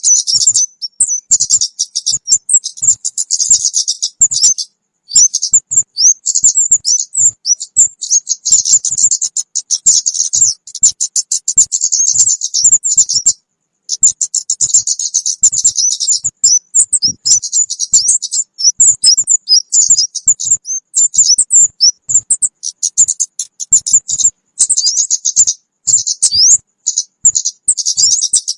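Kemade bird lure call (suara pikat): a loud, rapid, nearly unbroken stream of high, thin chirps and twitters, with short breaks about five and thirteen seconds in. It is a call played to draw small birds in for trapping.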